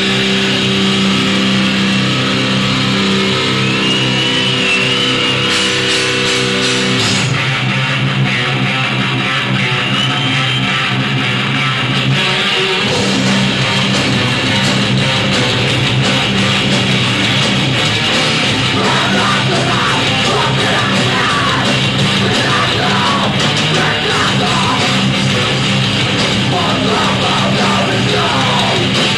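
Heavy metal band playing live: loud distorted electric guitars and bass holding long chords, which change about seven and again about twelve seconds in.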